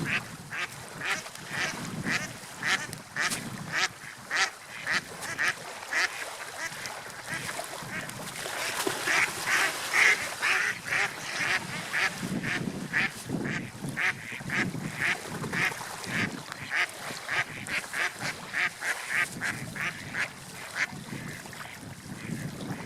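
Ducks quacking in a long run of short calls, about two to three a second, busiest about halfway through, over a steady rush of wind and water.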